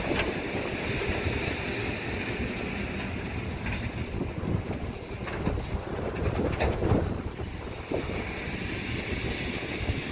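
Harvest machinery running steadily, with wind on the microphone and a few knocks and clatters in the middle.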